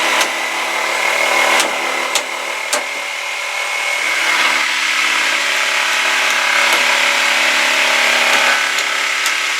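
Power saw running steadily as it cuts wood, with a few sharp clicks along the way.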